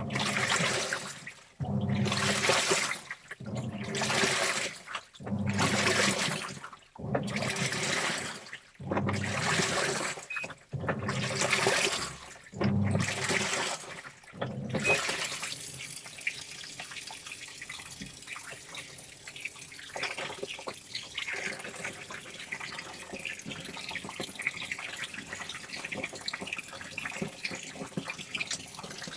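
Washing machine churning its load in rhythmic strokes about every one and a half seconds, each stroke with a low motor hum and the slosh of water. About fifteen seconds in the strokes stop and a steady rush of water takes over.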